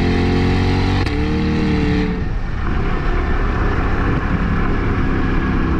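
2020 C8 Corvette's 6.2-litre V8 through a 3-inch stainless cat-back exhaust with factory catalytic converters, pulling hard with the pitch rising and a brief break about a second in, like a gearshift. About two seconds in the driver lifts off and the even engine note turns to a rougher, uneven exhaust sound as the car coasts.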